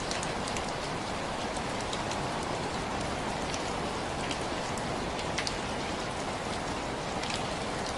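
Steady rainfall, with a constant hiss and many individual drops ticking on a hard surface.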